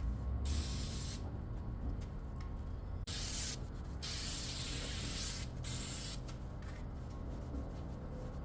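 Paint being sprayed onto the newly machined steel cylinder rod eye: three bursts of hiss, a short one about half a second in, a long one of about two and a half seconds from about three seconds in, then a short one around six seconds, over a steady low hum.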